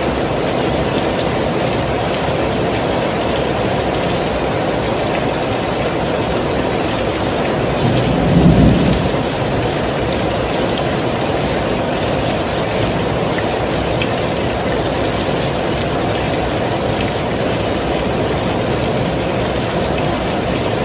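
Heavy rain falling steadily, with a brief low rumble swelling and fading about eight seconds in.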